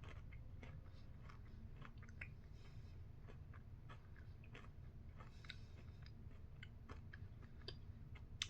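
Faint chewing of a milk chocolate bar with crunchy waffle cone pieces: small irregular crunches and crackles over a low steady hum, with one sharper click near the end.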